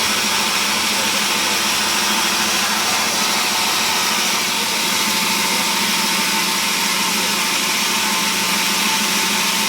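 Sawmill machinery running steadily: a loud, even whirring noise with a constant hum underneath.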